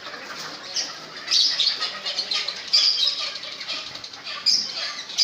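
Caged parrots squawking in three loud, harsh bursts over a steady background of other cage birds chirping.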